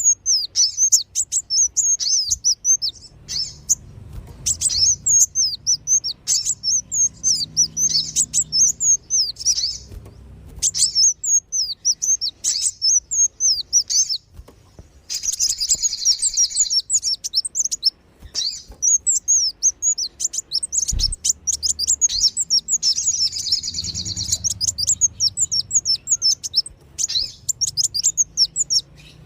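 Sunbirds calling in a busy chorus of rapid, high, thin chirps, broken by short pauses: a lure recording used to draw wild sunbirds in.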